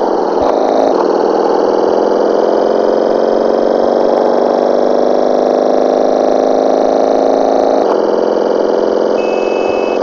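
Motorcycle engine running under way, its pitch slowly climbing for several seconds, then shifting suddenly about eight seconds in, as at a gear change.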